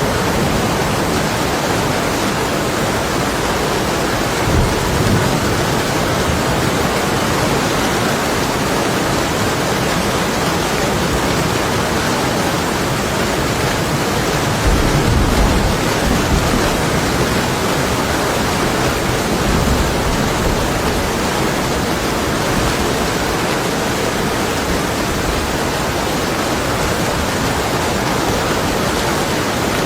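Heavy rain beating steadily on window glass, a dense unbroken hiss. Low rumbles of distant thunder swell about four seconds in, again around the middle, and once more a few seconds later.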